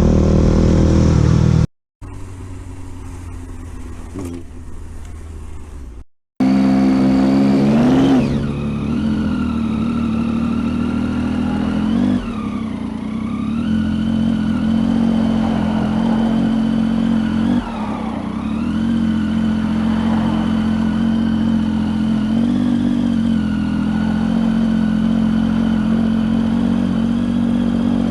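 Motorcycle engine running at steady revs as the bike rides along, its pitch briefly dropping and picking up again a few times. Before that, after a sudden cut, comes a shorter, quieter stretch of traffic noise.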